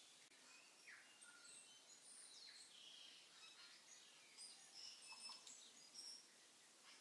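Faint sizzling and scraping as a wooden spatula stirs chickpeas and fried onions in oil in a stainless steel Instant Pot inner pot, with short high crackles that come thicker in the second half.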